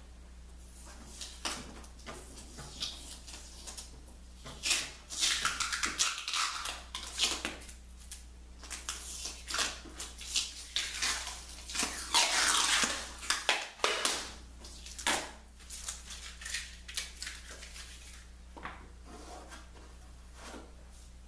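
Hand work at a workbench: irregular light knocks and clicks with stretches of scraping and rubbing, busiest in the middle.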